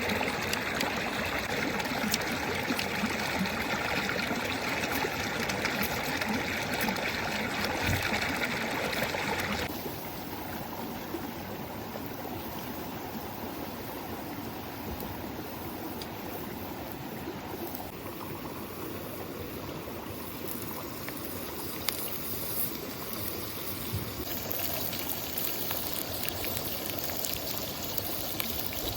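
Steady rushing of a flowing stream. It drops abruptly to a quieter, duller rush about ten seconds in and shifts slightly again later.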